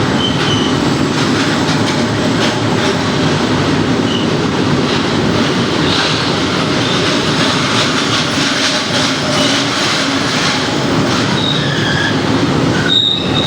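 Goods train of wagons hauled by a WAG-5 electric locomotive rolling past with a steady loud rumble of wheels on rail, and brief high-pitched wheel squeals now and then, most often near the end.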